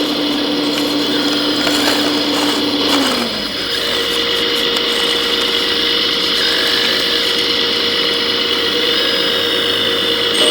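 Small electric motors and gearboxes of 1:14 scale radio-controlled model construction machines whining steadily, with several tones at once. About three seconds in, one motor's lower tone drops away and a slightly higher one carries on.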